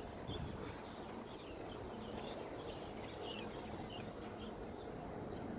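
Outdoor harbour ambience: a steady low background hiss with faint, scattered chirps of small birds throughout.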